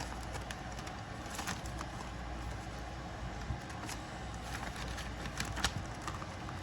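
Faint rustling and scattered light clicks of paper bills and cash envelopes being handled while money is counted out, over a steady low hum.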